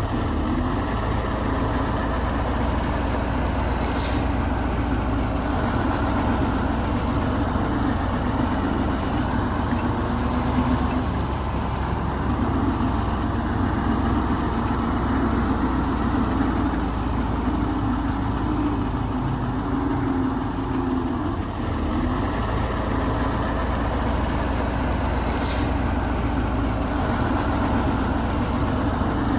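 Heavy diesel earthmoving machinery, a bulldozer and dump truck, running steadily with a constant low engine drone. Two brief high-pitched hisses cut through, about four seconds in and near the end.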